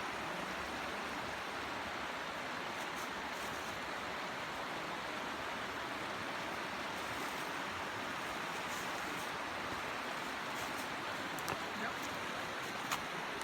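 Steady rushing of a creek's flowing water, with a few faint knocks near the end.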